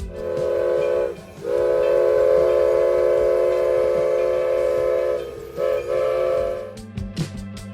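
Chime whistle of a narrow-gauge, oil-fired steam locomotive built in 1913, blowing a short blast, a long blast and then two short blasts. Each blast sags in pitch as it cuts off.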